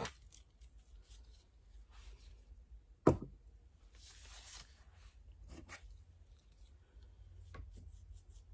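Small handling sounds on a work surface: light clicks, rustles and scrapes, with one sharp knock about three seconds in, like a cup or tool being set down.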